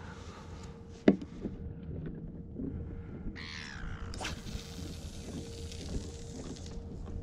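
A sharp knock about a second in, then a bird call that falls in pitch, followed by a rushing hiss lasting about two and a half seconds.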